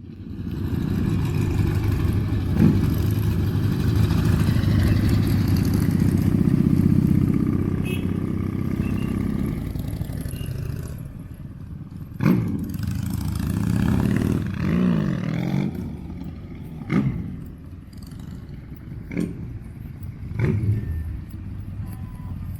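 Motorcycle engines running, loud for about the first ten seconds, then quieter, with a wavering rev near the middle and several sharp cracks in the second half.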